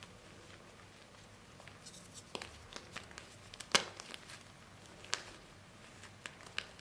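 Dried gym chalk and cornstarch paste being crushed, giving a few scattered soft crackles and clicks, the sharpest a little under four seconds in; the paste is soft rather than crunchy.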